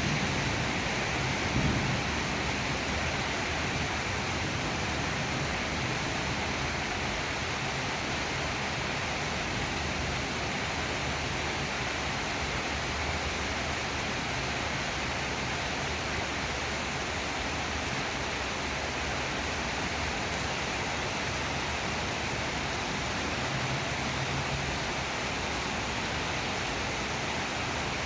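Heavy rain pouring down steadily, an even hiss. Thunder rumbles low and dies away in the first couple of seconds.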